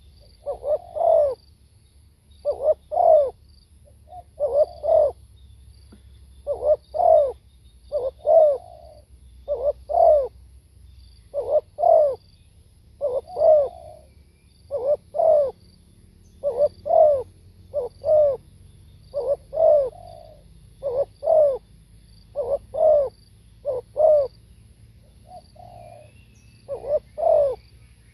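Spotted dove cooing, short phrases of two or three coos repeated every one to two seconds.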